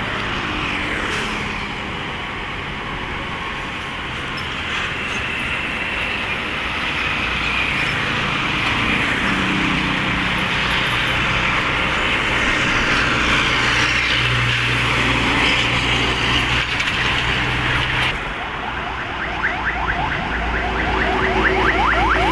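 Highway traffic: cars and trucks passing, tyre and engine noise with a low engine hum growing stronger in the middle. About eighteen seconds in, the sound changes abruptly and a fast run of short rising chirps begins.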